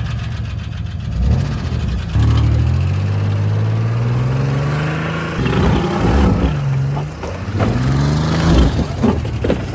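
Car engine revving under load as the vehicle drives over a hill. Its pitch jumps up about two seconds in, then rises and falls with the throttle.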